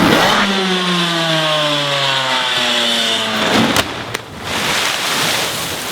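Motocross bike engine buzzing, its pitch falling steadily over about two and a half seconds. A short burst of noise follows, then a steady rushing hiss.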